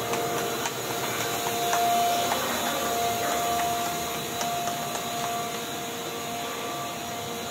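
Steady mechanical hum with a held whining tone and a few light clicks.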